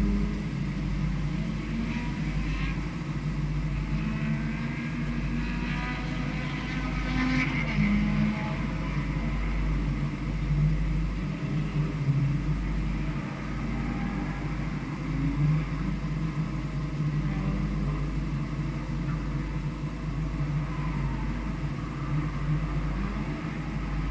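Onboard engine sound of a vehicle lapping a race circuit, its note rising and falling with throttle and gear changes, over a constant low rumble.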